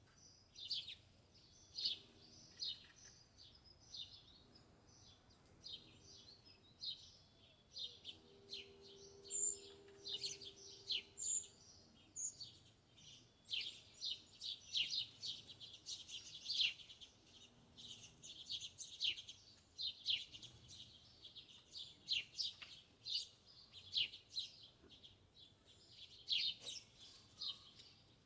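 Small birds chirping, with many short, high calls in quick succession overlapping one another.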